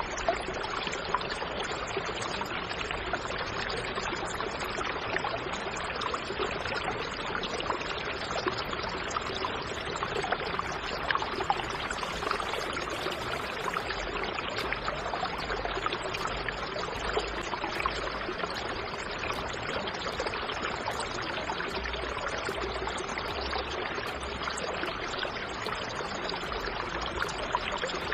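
Water pouring in a steady stream.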